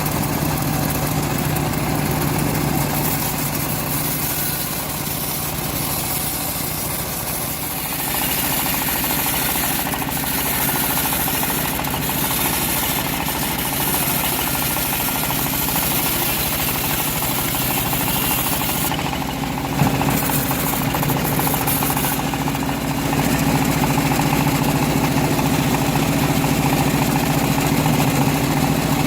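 Engine-driven homemade bandsaw running steadily while it saws a teak log, with a low engine drone throughout. The sound changes about eight seconds in, there is a short knock near twenty seconds, and it grows louder over the last few seconds.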